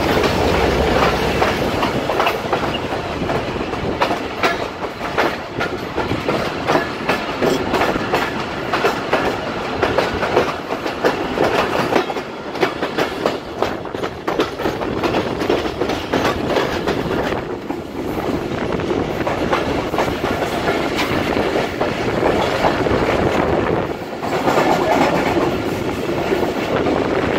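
Awami Express passenger train running along the track, its wheels clattering over the rail joints under a steady rumble.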